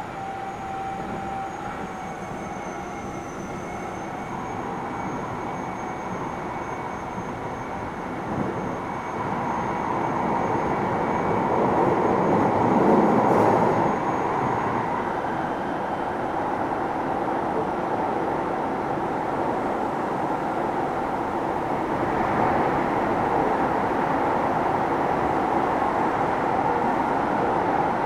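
Keio 7000 series electric commuter train running, heard from inside the passenger car: steady rumble of wheels on rail with a few faint steady whining tones. It grows louder about nine seconds in, is loudest around thirteen seconds, then settles into an even run.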